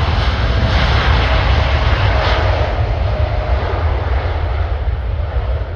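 Jet airliner's engines roaring with a heavy low rumble and a faint whine that slides slightly lower, the sound gradually easing off toward the end as the aircraft passes.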